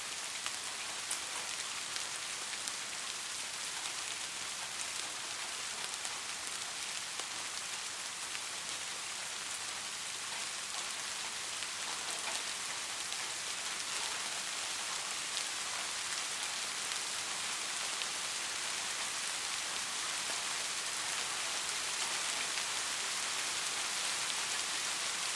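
Steady rain falling on a hard surface: a dense, even hiss with scattered individual drops ticking through it.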